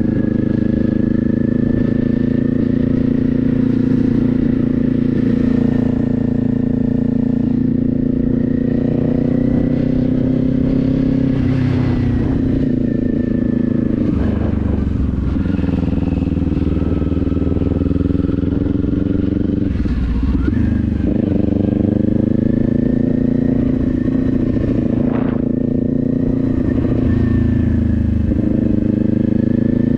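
Kawasaki Z400's 399 cc parallel-twin engine running under way. Its pitch dips and comes back up a few times as the throttle is rolled off and on.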